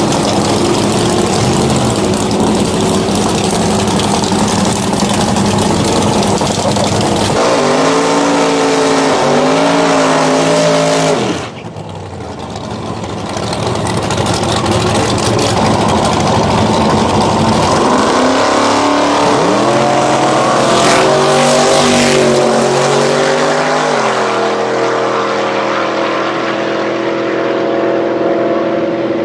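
Mercedes CLK drag car's engine running hard at full throttle, its pitch climbing and dropping in steps as it goes up through the gears. The sound drops away sharply about twelve seconds in, then builds back up and shifts through the gears again before settling to a steadier note near the end.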